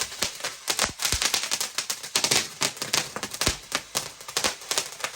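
Firework crackling and popping: a rapid, irregular string of sharp cracks, several a second.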